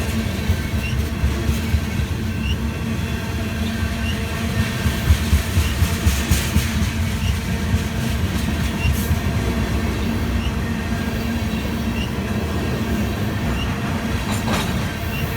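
Freight train of tank cars rolling by: a steady rumble of steel wheels on rail, with a light click about once a second and a couple of brief louder rattles.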